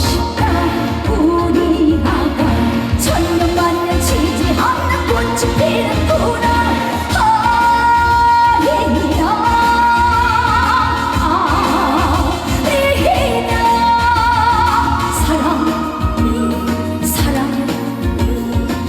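A woman singing a trot song live with a band, holding long notes with vibrato over a steady drum beat.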